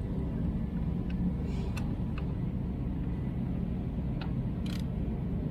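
A steady low rumble with a few light clicks and a short hiss.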